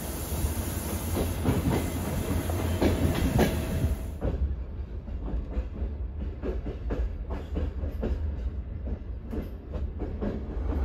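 Passenger coach of a TCDD TVS 2000 couchette train running over jointed track, its wheels clicking over rail joints and points over a steady low rumble. A high hiss drops away about four seconds in.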